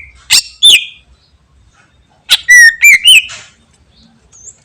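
Green leafbird (cucak ijo) singing loud, sharp whistled notes: two quick notes at the start, then a rapid phrase of about four notes about two seconds in.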